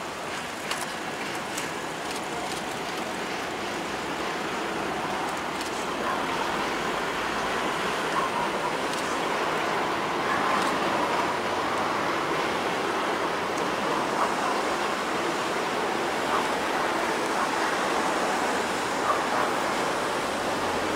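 Passenger train hauled by an EP07 electric locomotive rolling across a steel girder bridge: a steady rumble of wheels on rail, with a few sharp clicks in the first couple of seconds and swelling slightly as the coaches pass.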